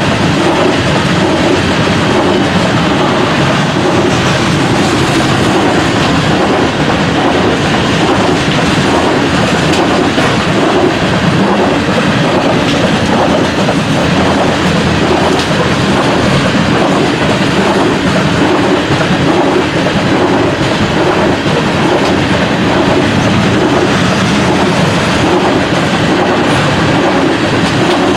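Loaded coal train's hopper cars rolling past at close range: a loud, steady rumble with wheels clacking over rail joints.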